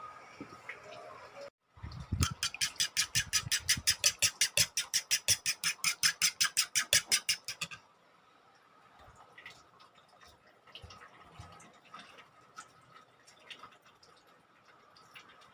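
A kitchen utensil striking rapidly and evenly, about seven sharp strokes a second for some six seconds, then stopping; a few small clicks and taps follow.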